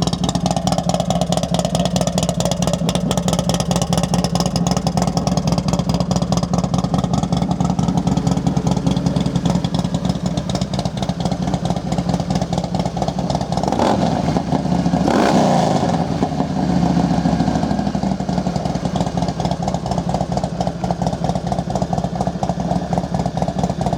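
A Harley-Davidson Screaming Eagle 95-cubic-inch V-twin, on a 2004 CVO Softail Deuce, idling steadily through what looks like a D&D 2-into-1 exhaust. A little past halfway the throttle is blipped and the revs rise and fall briefly before settling back to idle.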